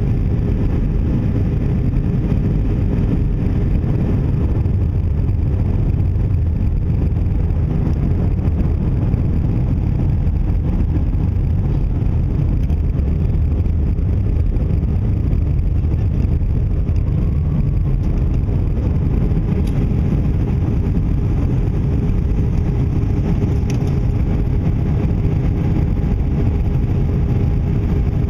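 Airbus A319 cabin noise in flight: a steady, loud rumble of engines and airflow with a faint steady hum, joined by a second, higher hum about two-thirds of the way through.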